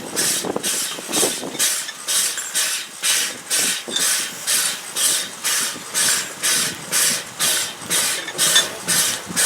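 Steam locomotive exhaust chuffing in a steady, even rhythm of about two and a half hissing beats a second.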